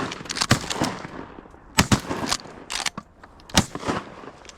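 Shotgun blasts from goose hunters firing at low-flying geese: several shots in quick, irregular succession, the loudest about two seconds in and again just past three and a half seconds.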